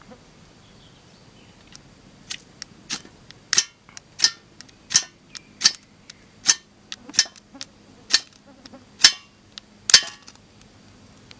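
A ferro rod (firesteel) struck repeatedly to throw sparks onto shredded twine tinder. It makes about a dozen sharp, high scraping strikes, roughly one every two-thirds of a second, until the tinder catches.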